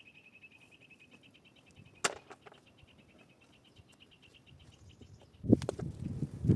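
An insect trilling steadily in a fast, high, finely pulsed buzz that stops about five seconds in. A single sharp click about two seconds in, and a series of loud knocks near the end.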